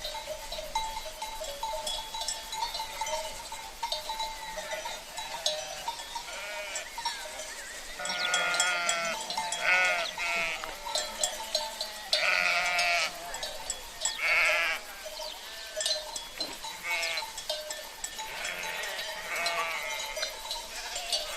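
Sheep bleating, several wavering calls from about eight seconds in, over clanking bells worn by the flock and a steady rush of river water.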